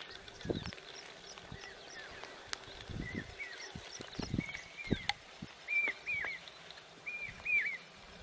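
Small birds chirping outdoors: short, arched chirps, often in pairs, coming more often from about three seconds in. A few faint clicks and low knocks mix in.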